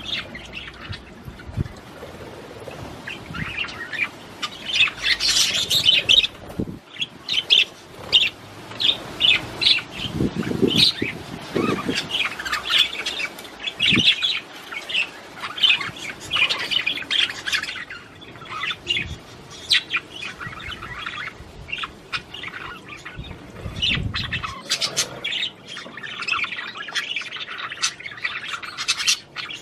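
Budgerigars chattering and warbling: a continuous, busy stream of short chirps, trills and squawks. There are a few brief low thumps mixed in.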